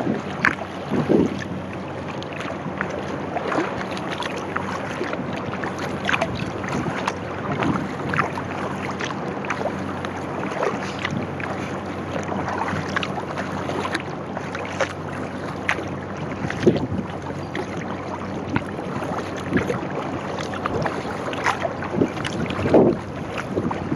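Sea kayak paddle strokes: the blades dip and splash in the water about once a second over a steady wash of water along the hull, with wind buffeting the microphone.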